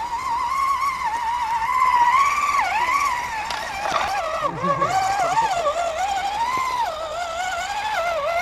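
Electric motor and geared drivetrain of a scale RC rock crawler truck whining steadily, the pitch rising and falling as the throttle is worked over rough ground.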